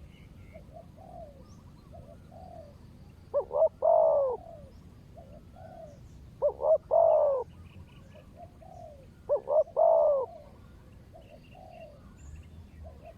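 Spotted doves cooing. A loud coo phrase of two short notes and a longer drawn note comes three times, about every three seconds. Fainter, shorter coos fall in the gaps between.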